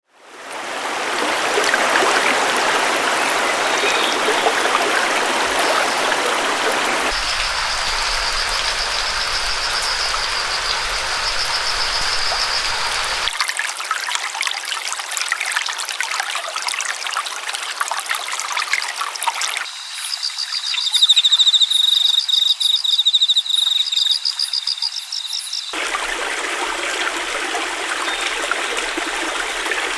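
Flowing stream water, a steady rushing trickle that switches abruptly to a different stretch of water every several seconds. High, rapid trills sound over the water twice, loudest in the second half.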